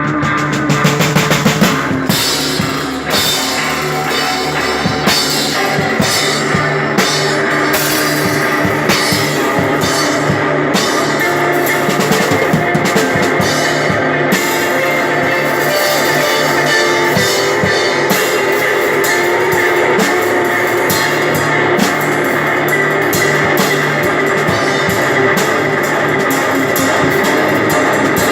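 Instrumental rock passage played live by guitar and drum kit, with drum and cymbal strikes throughout over sustained guitar.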